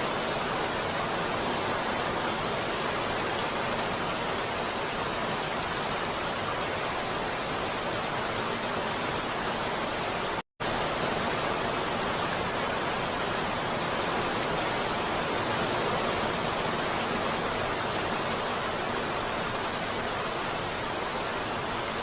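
Heavy rain falling steadily, an even hiss. About ten seconds in it cuts out to silence for a split second, then resumes.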